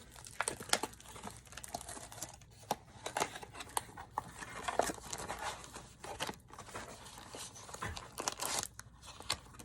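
Packaging of a Funko mystery mini being torn and crinkled: irregular crackling, rustling and ripping in short bursts.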